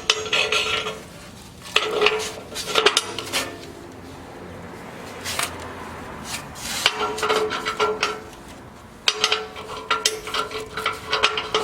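Metal wood-stove parts clinking and rattling against each other as they are fitted together during assembly, with a faint ringing. It comes in four short bouts separated by quieter pauses.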